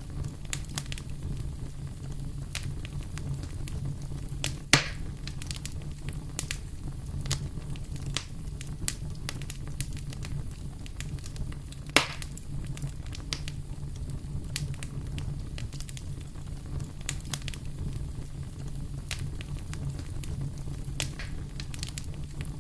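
Wood fire crackling in a fireplace: a steady low rumble of burning with frequent small snaps, and two louder pops, about five seconds in and about twelve seconds in.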